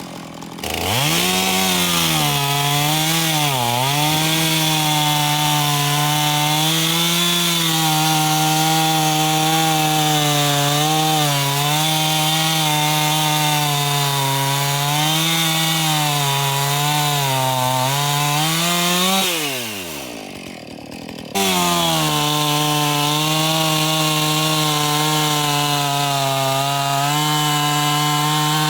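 Husqvarna Rancher two-stroke chainsaw revving up from idle to full throttle and cutting through a log, its pitch dipping and recovering as the chain bogs in the wood. Near two-thirds of the way through the throttle is released and the engine falls toward idle, then it comes back suddenly at full speed and keeps cutting. The owner says the chain needs sharpening.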